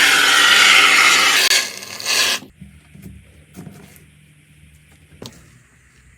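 A loud, harsh rasping scrape that stops about two and a half seconds in, followed by quiet with a few faint clicks.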